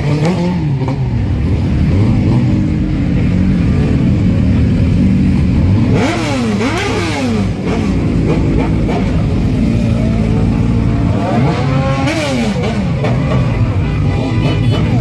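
Several motorcycle and car engines running together in a slow-moving procession. Engines are revved up and back down, sharply about six seconds in and again about twelve seconds in.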